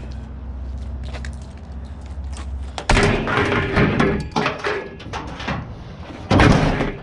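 A low, steady rumble stops about three seconds in, followed by loud thumps and bangs, with a last loud bang near the end.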